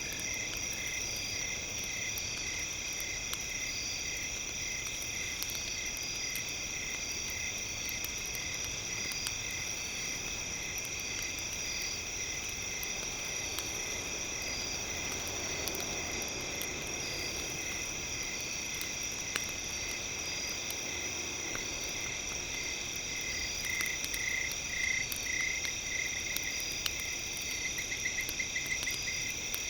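Campfire crackling with scattered small pops, laid under a steady layered high-pitched drone and a rapid pulsing chirp. The chirping grows louder and busier in the last few seconds, like a chorus of frogs or insects.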